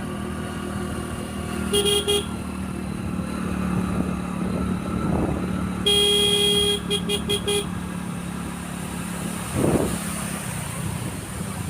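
Motorcycle engine running steadily on the move, with a horn honking: one short honk about two seconds in, then a longer honk followed by three quick toots around six to seven seconds in.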